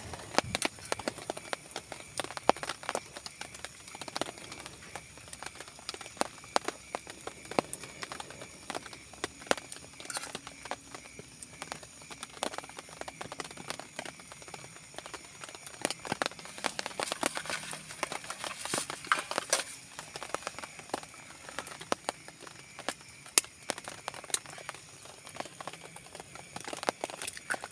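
Raindrops dripping and pattering irregularly onto a tent or tarp: a scatter of sharp ticks that grows denser about two thirds of the way through.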